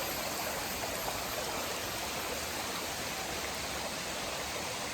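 Steady rush of flowing water over rocks, a mountain stream running nearby.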